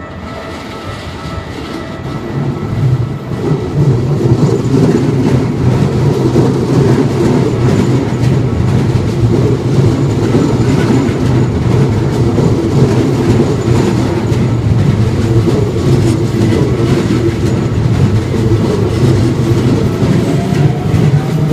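Keikyu electric train passing over the level crossing: wheels clattering and rumbling on the rails, building over the first few seconds into a loud, steady rumble.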